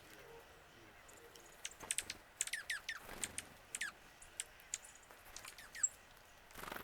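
Wild birds calling: a quick run of short notes, each dropping steeply in pitch, in the middle, amid scattered short high chips. A brief rushing noise rises near the end.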